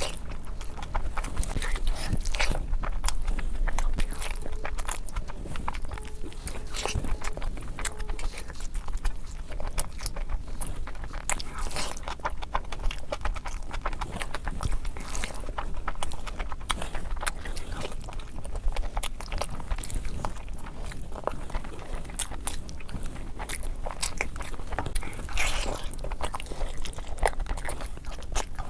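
Close-miked eating sounds of rice curry and chicken: a dense, continuous run of wet chewing and biting clicks, played back at double speed, over a steady low hum.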